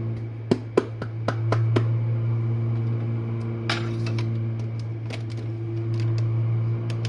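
Jenn-Air dishwasher running its main wash: a steady low pump-motor hum with a few steady tones over it. Irregular sharp clicks and a brief splash of spray mix with the hum. A viewer likened the pump's sound to cavitation.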